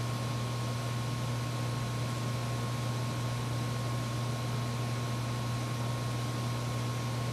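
Steady machine hum with an even hiss and a thin high tone, unchanging throughout, like a small fan or motor running.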